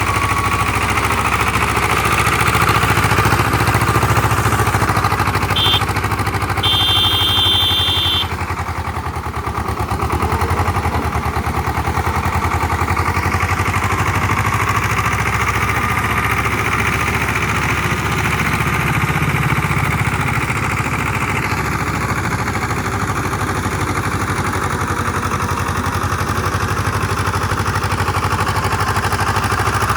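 Diesel tractor engine running steadily while it works a rotavator through a flooded paddy field. Two short high-pitched tones come through about six to eight seconds in.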